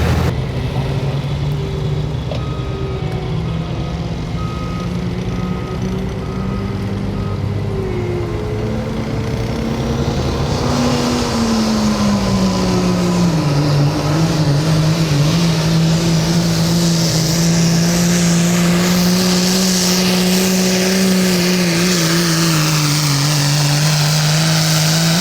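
Diesel pickup truck engine running hard through a sled pull, with a loud hiss coming in about ten seconds in. The engine pitch falls a little and then holds steady under load. Near the start a backup alarm beeps about eight times.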